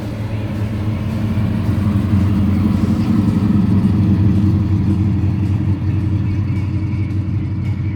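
Car engine running steadily as the car drives along, swelling a little toward the middle and easing off near the end.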